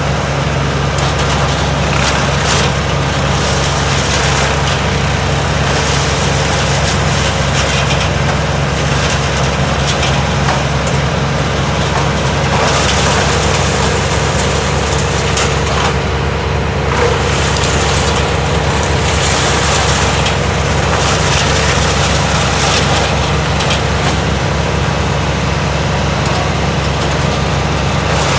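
Bandit 200+ XP disc wood chipper running steadily under load, its engine drone constant, with irregular bursts of crackling and crunching as wood is fed through and chipped.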